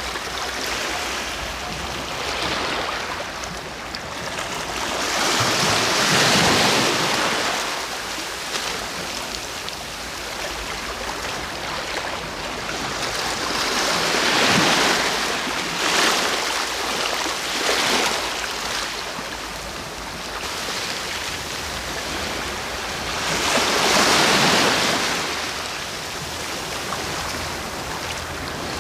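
Sea waves breaking and washing on the shore, swelling to a louder crash about every eight to ten seconds, around 6, 15 and 24 seconds in.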